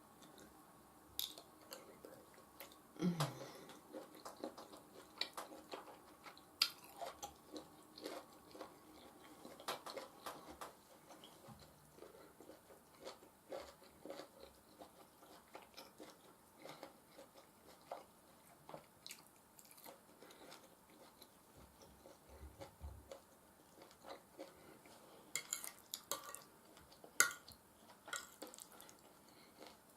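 Close eating sounds: chewing and mouth noises over soft mashed potatoes and beef stew, with scattered clicks of cutlery against a plate or bowl, the sharpest near the end.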